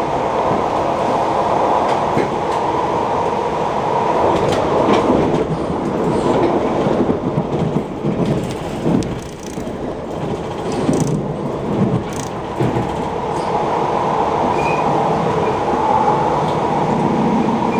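Passenger train running, heard from inside the carriage: a steady rumble of wheels on the track, with scattered clicks and knocks.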